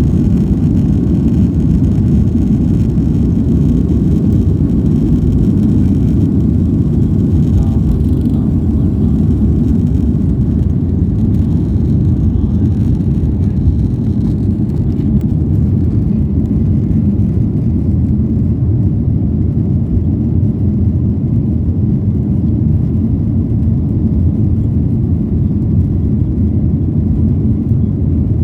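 Airliner cabin noise: a loud, steady low rumble of jet engines and airflow, with a fainter higher hiss that fades out about halfway through.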